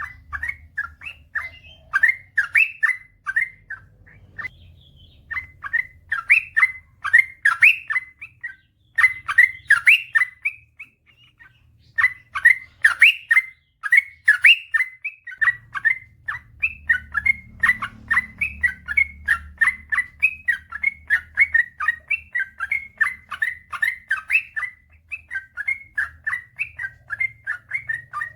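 Yellow-vented bulbul (trucukan) singing a long, continuous chattering song of quick, bubbly notes, several a second, with only brief pauses. It is the kind of long-running song ('ropel panjang') played to prompt caged bulbuls to sing.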